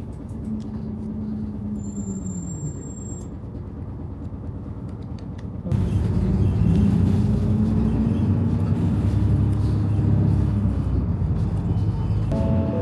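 Road vehicle running, a steady low engine hum and road rumble that gets abruptly louder about six seconds in.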